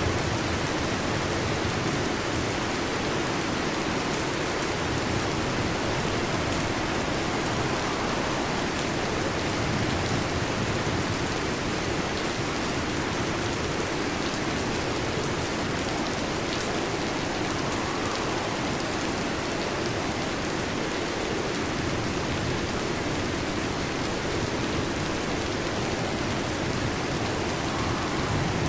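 Heavy rain pattering steadily on a metal roof.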